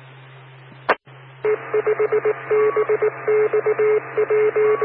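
Electronic beep tones over a ham radio repeater link, switching rapidly on and off in short and long beeps, after a sharp click, with a steady hum underneath.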